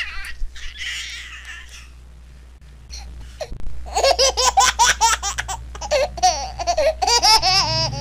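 A person laughing, high-pitched and in quick repeated peals, starting about four seconds in after a quieter stretch.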